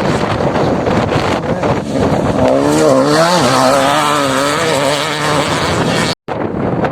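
Heavy wind buffeting on the microphone over an off-road motorcycle engine whose pitch wavers up and down for a few seconds in the middle as the throttle varies. The sound cuts out for a split second near the end.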